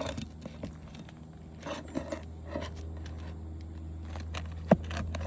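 Prying a roofing nail out from under asphalt shingles: scattered light scrapes and clicks, with one sharp click near the end, over a steady low hum.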